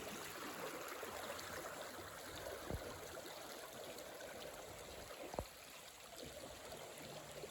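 Small rainforest creek running, a steady rush of flowing water, with two light knocks about three and five and a half seconds in.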